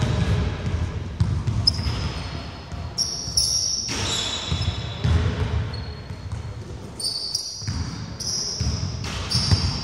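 Basketball bouncing repeatedly on a wooden gym floor during play, with short high squeaks of sneakers on the court in between.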